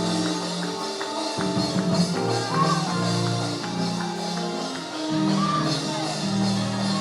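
Church praise music: held keyboard or organ chords over a moving bass line with light percussion, the harmony changing about a second and a half in and again about five seconds in.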